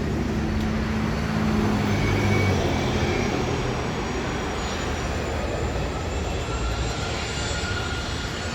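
Jet airliner engines running: a steady broad rush, with low tones dying away in the first seconds and a faint high whine coming in later, the whole slowly easing off.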